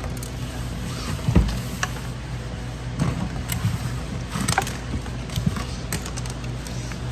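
Scattered small clicks, rattles and knocks of hands handling electrical wires and small plastic wire connectors, over a steady low hum. The loudest knock comes about a second and a half in.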